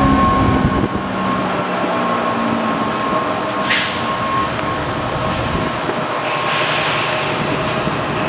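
A train running close by, with steady whining tones over a dense rumble. A short hiss comes nearly four seconds in, and a longer one near the end.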